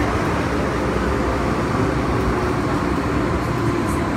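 Steady running noise heard inside an MTR M-Train car: an even rumble of wheels and running gear with a few faint steady tones from the train's equipment.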